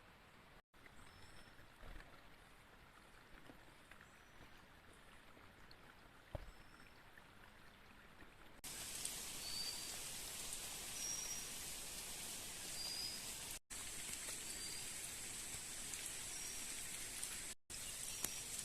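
Rain falling in forest: a faint steady hiss with scattered drips that jumps to a much louder, fuller rain hiss about halfway through. Short high chirps from a small animal repeat every second or two throughout.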